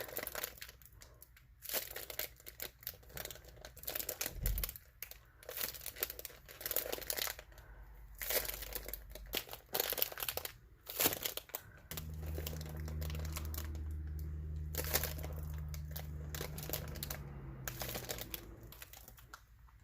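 Homemade foam squishy being squeezed and handled close to the microphone: irregular soft crinkling and rustling. A low steady hum comes in about twelve seconds in and fades near the end.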